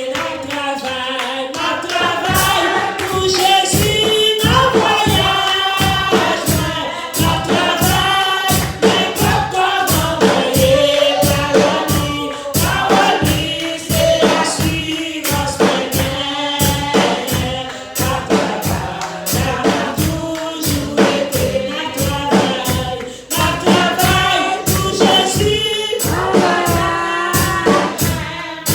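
Church congregation singing a gospel song together, over a steady percussive beat of about two strokes a second.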